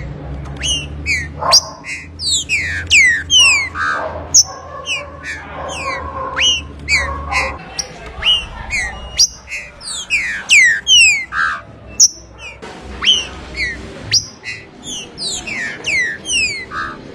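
Green-winged saltator (trinca-ferro) singing: a dense run of clear whistled notes, each sliding quickly downward, one after another with little pause. A low hum runs underneath for about the first half.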